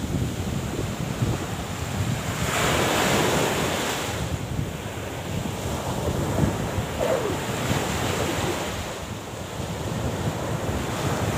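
Sea waves washing in with wind buffeting the microphone, one wave surging up louder about two and a half seconds in.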